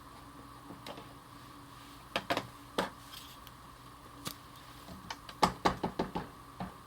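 Scattered light taps and clicks of a rubber stamp being re-inked on an ink pad and pressed onto card, with a quicker run of taps near the end.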